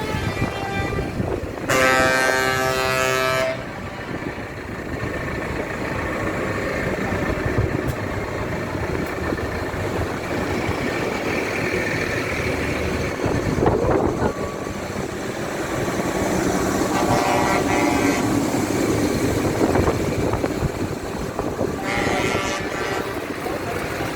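A loud horn blast of about two seconds, a couple of seconds in, over the steady rumble of tractor engines going by. Shorter, fainter horn toots follow later, about two-thirds of the way through and near the end.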